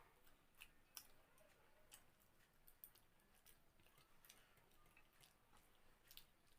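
Faint chewing and mouth clicks of someone eating rice and curry, irregular soft smacks every half second or so.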